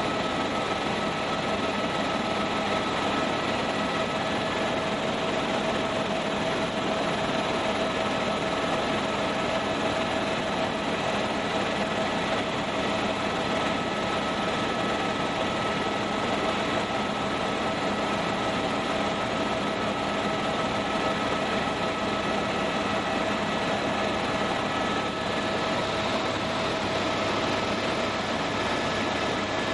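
Tour helicopter in flight, heard from inside the cabin: a steady, even rush of engine and rotor noise with a constant whine on top.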